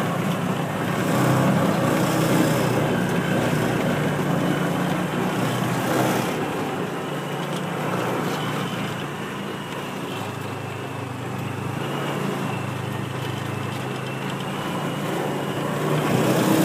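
Small engine of a ride-on farm utility vehicle running steadily as it is driven along, a low hum under broad noise.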